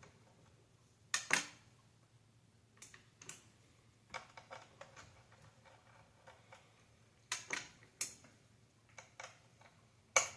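Scattered light clicks and taps of tools and small parts against an Xbox Series S console's casing and components during disassembly, a few at a time with short pauses between.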